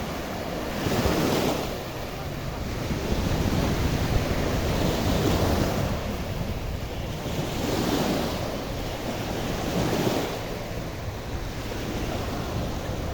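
Black Sea surf washing onto the beach, swelling and easing every couple of seconds, with wind rumbling on the microphone.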